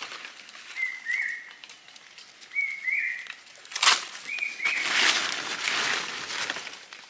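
A bird calls three times, each a short two-note phrase with a flat first note and a slightly higher second note that drops, about every one and a half to two seconds. A sharp snap comes about four seconds in, followed by about two seconds of loud rustling.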